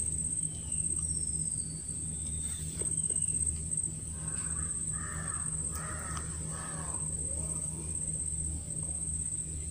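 A bird calling several times in quick succession about halfway through, with a few thin chirps earlier, over a steady high-pitched whine.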